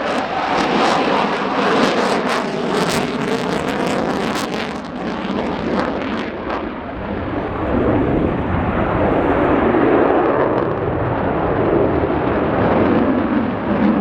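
RAF Typhoon FGR4's twin jet engines roaring in a display pass, crackling through the first five seconds or so, then settling into a deeper rumble from about seven seconds in.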